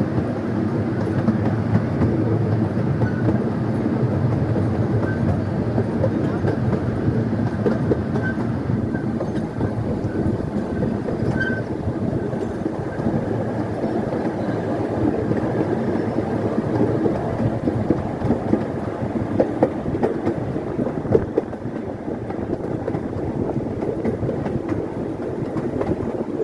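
Scenic railway passenger train running along the track, heard from aboard: a steady rumble of wheels on rail, with a few sharp clicks and knocks about two-thirds of the way through.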